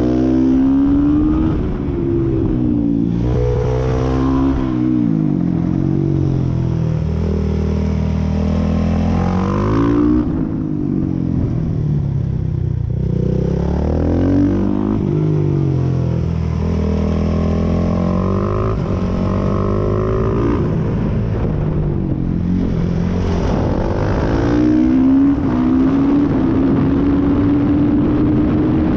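Suzuki 450 supermoto's single-cylinder four-stroke engine, heard from on the bike, revving hard and shifting: the pitch climbs and drops again and again as the rider accelerates, changes gear and backs off for corners, with a long pull to high revs near the end.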